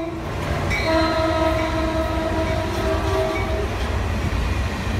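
Caltrain locomotive horn sounding one long blast of about three seconds, starting about a second in, over the steady low rumble of the passing train.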